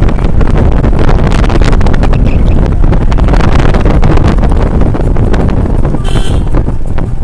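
Heavy wind buffeting the microphone: a loud, uneven low rumble with irregular gusty thumps.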